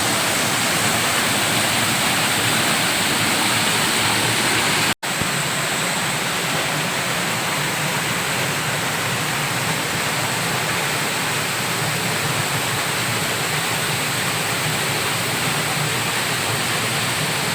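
Waterfall pouring: a steady, loud rush of falling water, cut off for an instant about five seconds in.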